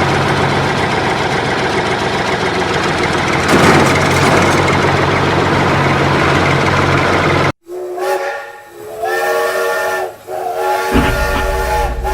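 Loud, steady hissing noise over a low hum that cuts off suddenly about two-thirds of the way in. It is followed by a chord of whistle-like tones sounding in several held blasts, like a steam whistle.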